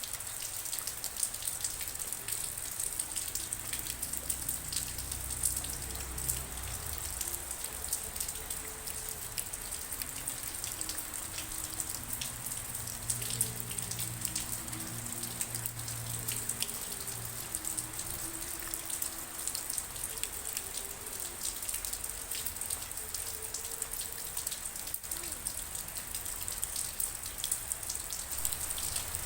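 Steady rain, with many individual drops ticking and pattering against a constant hiss. Faint low wavering tones sound underneath through the middle stretch.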